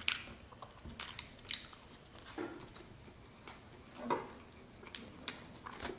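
A person chewing soft bread close to the microphone, with scattered mouth clicks and smacks about a second apart.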